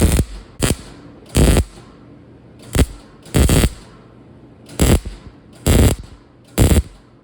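MIG welder laying a series of short tack welds on sheet steel: about eight brief crackling bursts, roughly one a second, with a quiet hum between them.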